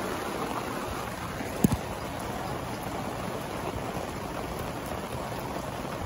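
Steady rain falling, an even hiss of drops, with a single sharp knock about one and a half seconds in.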